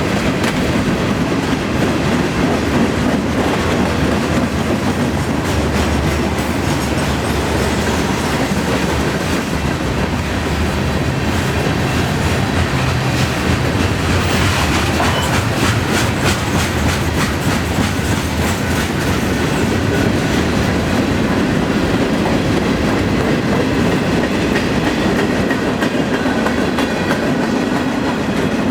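Freight cars of a long CN freight train rolling past at low speed, wheels clicking over rail joints over a steady rumble, with a busier run of clicks about halfway through.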